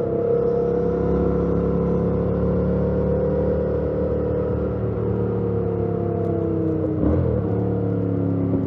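2018 Yamaha MT-07's 689 cc parallel-twin engine running under way through its stock exhaust. The note holds steady, then slowly falls, with a brief break about seven seconds in before it settles at a lower pitch.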